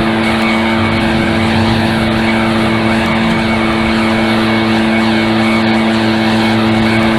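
Small gasoline engine of lawn equipment running steadily at high speed, with a constant, unchanging pitch.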